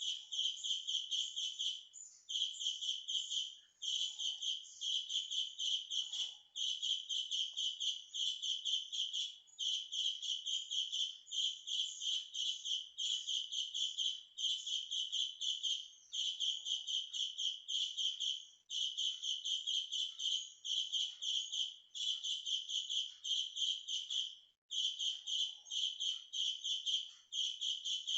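Birds chirping loudly in a rapid, unbroken run of high notes, several a second, broken only by a few short pauses.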